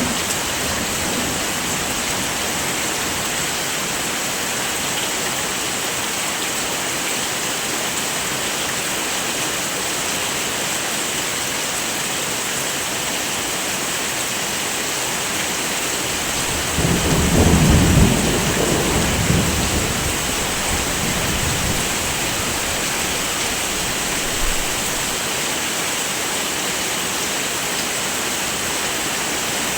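Heavy rain falling steadily as an even hiss, with a low roll of thunder rising a little past halfway and rumbling away over a few seconds.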